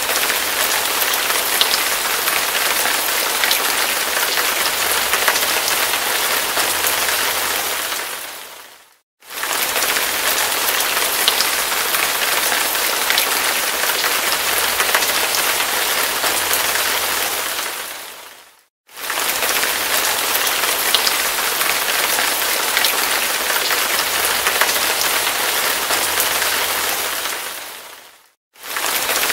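Heavy rain pouring steadily, a dense hiss with scattered drop ticks. It fades briefly to silence and back in about every nine and a half seconds, three times.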